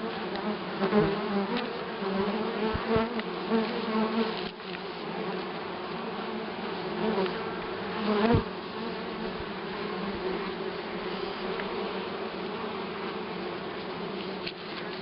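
Many honeybees buzzing in flight around their hive, a steady hum that swells louder for a moment several times as single bees pass close.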